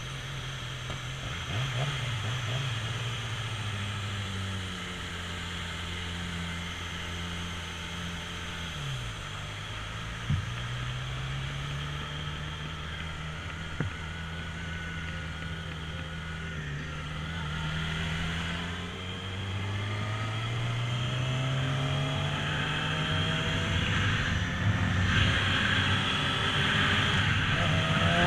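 Motorbike engine running on the move. Its pitch sags about a third of the way through, then climbs steadily as it speeds up and grows louder near the end, with two brief knocks in the middle.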